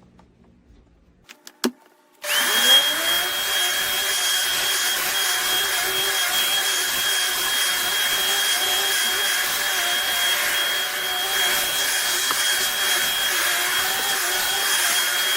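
A few sharp clicks, then a Shark Vertex AZ2002 upright vacuum switches on about two seconds in. Its motor spins up within half a second to a steady high whine, running on the thick carpet / area rug setting.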